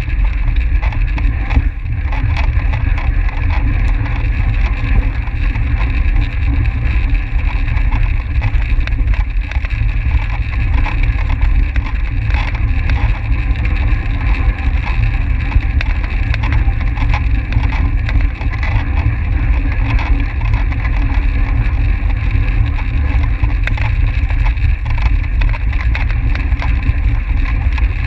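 Steady rush of wind buffeting a microphone riding along with a track bike at racing speed, heavy and low, with no break.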